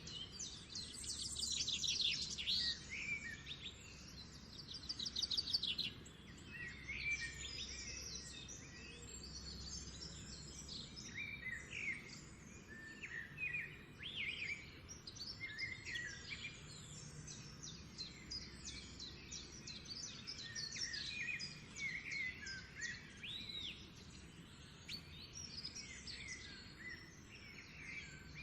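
Several songbirds singing and chirping at once, a busy mix of short whistled notes and fast trills, with the densest trills about a second in and again around five seconds. A faint low steady rumble lies underneath.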